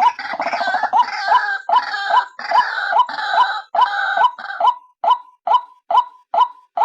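White-breasted waterhen (ruak-ruak) calling: a lure recording of a female's call. Short hooked notes repeat about twice a second, over a harsher chattering that stops about two-thirds of the way through, leaving the clean repeated notes.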